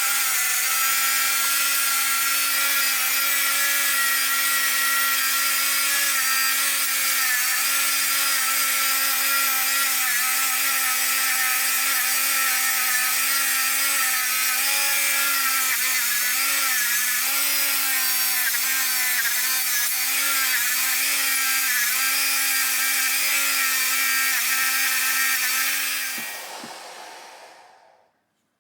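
An electric power tool running at steady speed with a high whine and a rasping hiss, cleaning a bare steel part before plating. The pitch sags slightly a few times under load, and the tool spins down and stops about three seconds before the end.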